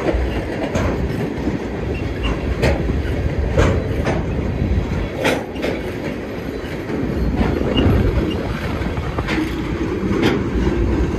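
Freight train of wind-turbine-blade flatcars rolling past close by: a steady rumble of steel wheels on rail, with irregular sharp clanks several times as the wheels cross rail joints and a few faint, brief wheel squeaks.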